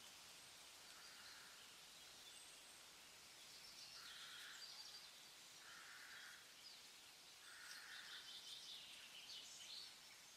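Faint woodland ambience with birds calling: a short call repeated several times and a few brief higher chirps in the middle and near the end, over a steady hiss.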